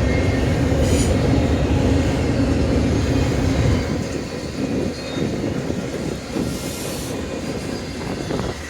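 Freight train rolling past on the rails, a heavy rumble that eases off about four seconds in and carries on more quietly.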